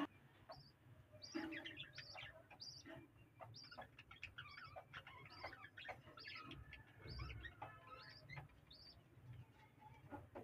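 Small cage birds chirping faintly: short high chirps repeated roughly every half second to second, with other brief calls mixed in.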